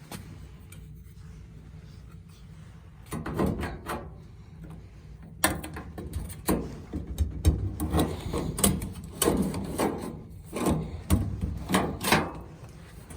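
A spatula prying at the clips of a gas dryer's top panel: repeated scrapes and clunks, a few about three seconds in and a busier run through the second half.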